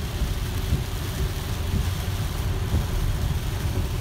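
Heavy rain on the car and tyres on a soaked highway at about 50 mph, heard from inside a Tesla's cabin: a steady low rumble under an even hiss.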